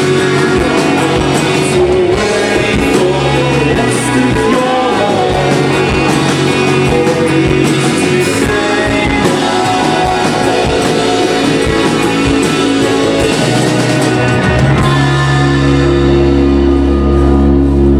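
Live indie rock band playing, with electric guitars, bass, drums and a sung vocal. About three-quarters of the way through, the band settles into a held, droning chord with heavy bass.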